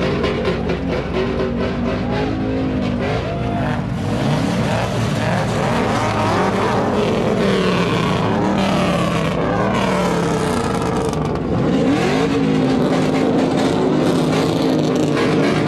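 Truck engine revving hard at high load, its pitch repeatedly climbing and dropping, with tire squeal mixed in.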